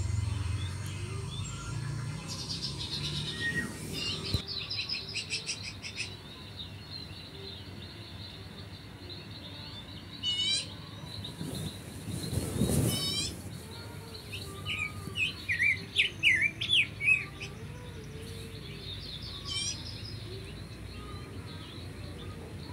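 Birds chirping and singing, with short high trills now and then and a run of loud quick chirps a little past the middle.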